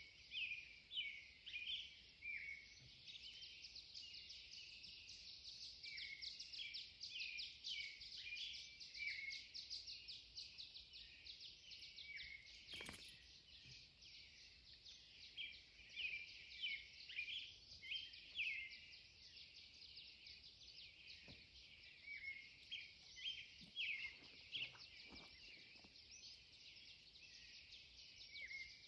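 Faint pre-dawn bird chorus: several songbirds singing at once in a dense run of quick, high chirps and short falling notes. One brief click near the middle.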